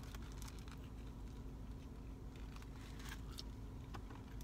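A person biting and chewing a mouthful of burger close to the microphone: small scattered wet clicks and crunches over a steady low hum.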